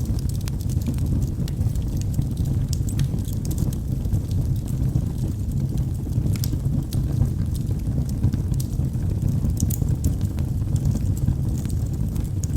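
Logs burning in a fireplace: a steady low rumble of the fire with scattered sharp crackles and pops at irregular moments.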